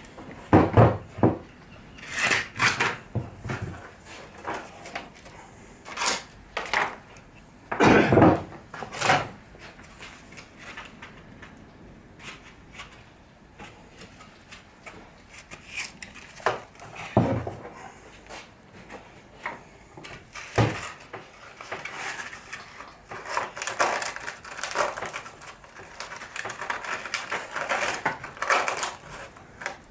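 Irregular knocks, clunks and scraping as wooden workpieces and a hand tool are handled and set down on a workbench, with a denser stretch of rubbing and scraping in the last third.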